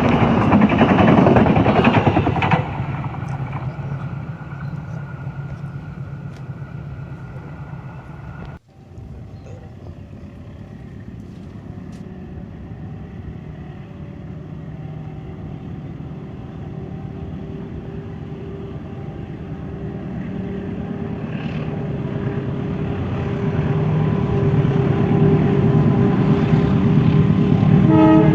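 Diesel train noise: a loud pass dies away within the first few seconds. After a brief cut, a CC203 diesel locomotive's engine drone grows steadily louder as it approaches, with a steady hum that strengthens near the end.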